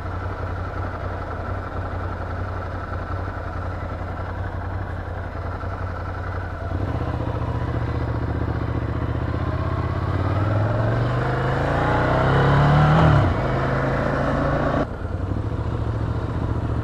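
Ducati Scrambler motorcycle's L-twin engine running steadily at low revs, then pulling away louder about seven seconds in and revving up with rising pitch until a sudden break near the end, as at a gear change, after which it runs on steadily.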